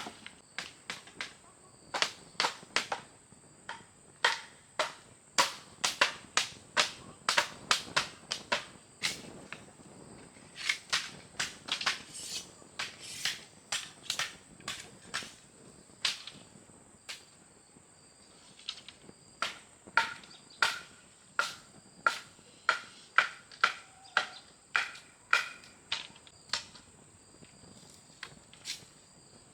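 A long series of sharp knocks or chopping strikes, loosely one to two a second with a short lull past the middle, over a steady high-pitched thin whine.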